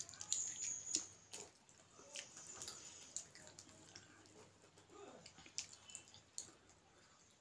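Close-up mouth sounds of someone chewing a steamed momo: soft wet clicks and smacks, louder in the first second and a half and fainter after.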